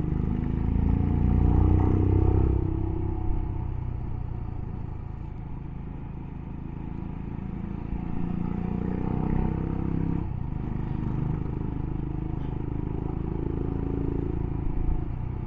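Motorcycle engine under way on a winding road, its note rising three times as it accelerates and dropping back as the throttle eases, over a steady low rumble of wind and road.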